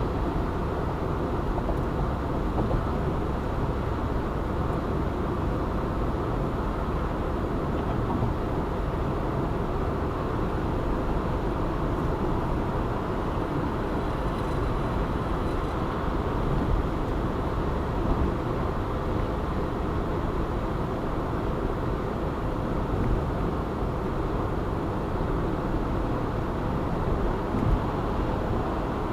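Steady road noise of a car driving at speed: an even low rumble of tyres and engine with no change in pace.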